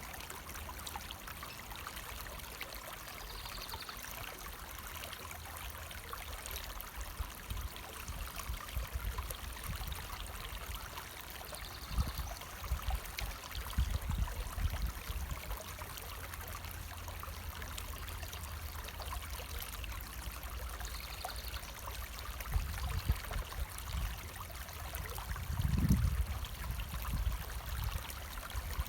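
Stream water running steadily over rocks, a continuous rushing. Low rumbles come and go underneath, strongest about twelve seconds in and again near twenty-six seconds.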